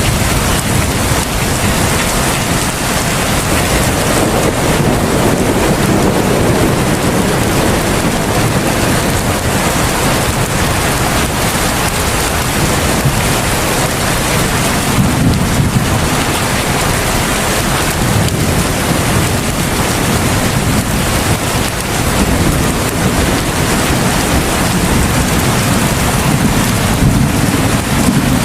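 Heavy rain falling in a steady, dense hiss, with a deeper low rumble swelling up now and then.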